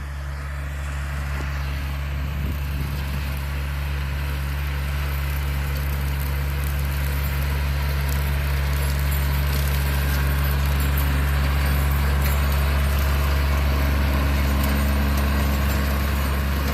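Tractor engine running steadily while pulling a bush hog mower, a steady low hum that grows gradually louder.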